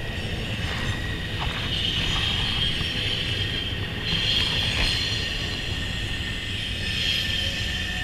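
Freight train passing: a steady low rumble with a high, drawn-out wheel squeal.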